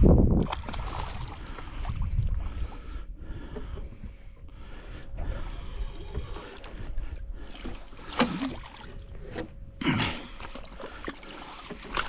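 Water splashing and sloshing beside a small boat, with irregular knocks and rustles, as a hooked yellow belly (golden perch) is played and brought alongside. A few short, louder splashes or knocks come near the end.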